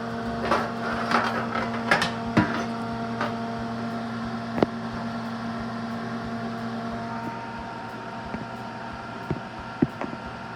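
Kitchen extractor fan running with a steady hum at one constant pitch. Several sharp clinks and knocks fall in the first two and a half seconds, and a few more near the end.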